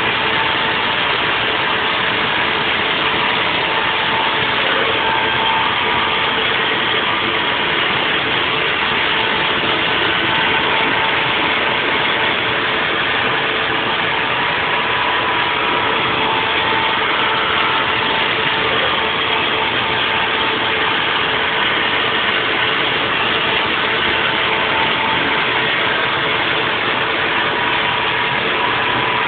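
Haas VF4 CNC vertical mill running a 3D machining cycle: a steady, even machine noise with a couple of steady whining tones from the spindle and cutting.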